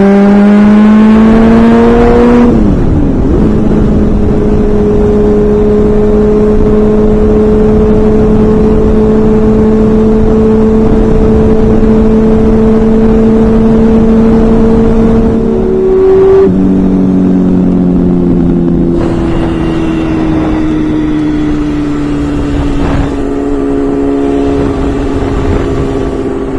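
Honda CBR600 F4i inline-four engine under way: the pitch climbs for a couple of seconds and drops with an upshift, holds steady at cruising speed for about fourteen seconds, then drops and falls slowly as the throttle is rolled off. A heavy rush of wind noise runs underneath.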